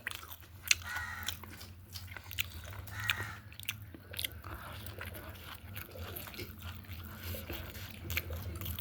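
A person chewing and crunching food close to the microphone, with many irregular crisp clicks over a low steady hum.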